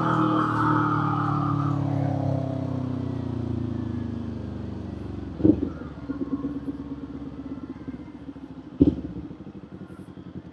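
Kawasaki Z400 parallel-twin engine winding down as the bike slows, its note falling and fading over the first few seconds, then running low and steady. Two sharp thumps cut in, about halfway through and again near the end.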